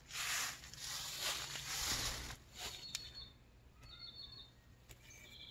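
A rustling noise for about the first two seconds. Then come short, high chirps of wild birds, about three and four seconds in, with another just before the end.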